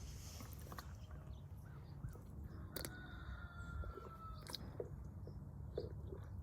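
Faint crows cawing a few times over a low steady rumble.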